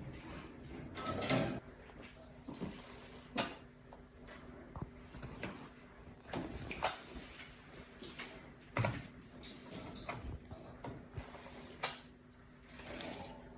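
Alexandrine parrot bathing: irregular sharp clicks and knocks, with short splashy rustling bursts about a second in and near the end, over a faint steady low hum.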